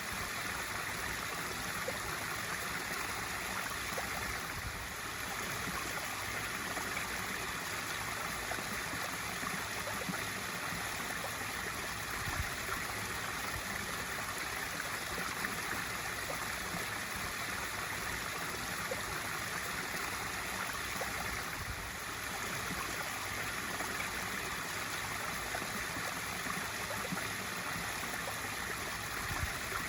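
Swimming pool waterfall feature, water pouring steadily into the pool in a constant splashing rush.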